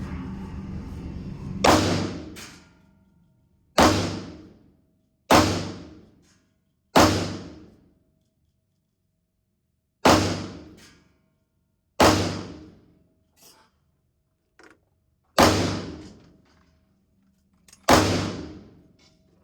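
Eight single gunshots from a 9mm AR-style carbine, fired one at a time with pauses of about one and a half to three seconds. Each shot is a sharp crack with a short ringing tail, as in slow aimed fire. A low steady noise before the first shot cuts off when it fires.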